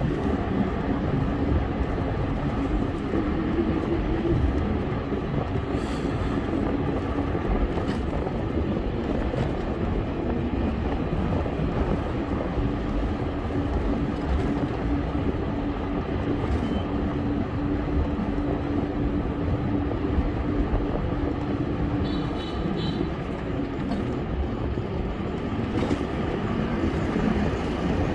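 Steady wind and road noise from riding a bike, with a steady low hum under it. A short high-pitched beeping sounds about 22 seconds in.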